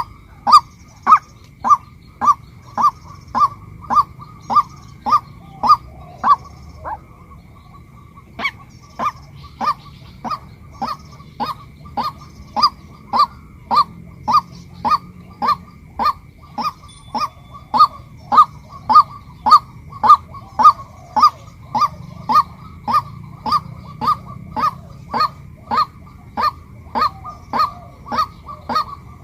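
Female white-breasted waterhen calling: a steady series of short, sharp notes about two a second. The series breaks off for about two seconds about a quarter of the way in, then resumes.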